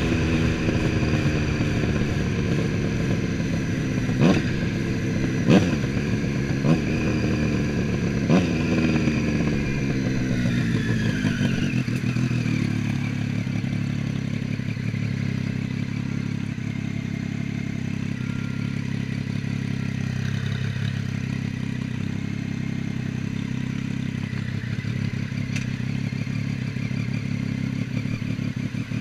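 Triumph Street Triple's three-cylinder engine slowing, its revs falling for about twelve seconds with a few sharp cracks along the way. It then settles into a steady low idle.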